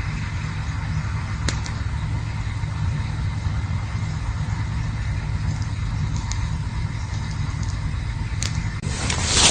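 Campfire burning with a steady low rumble and a few sharp crackles. A louder burst of hissing crackle comes near the end.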